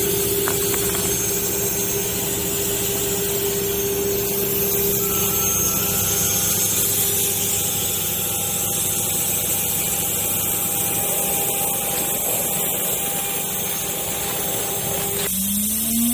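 Small CNC router's spindle running and cutting steadily, a held whine over the machining noise. About a second before the end the sound changes abruptly and a rising whine begins.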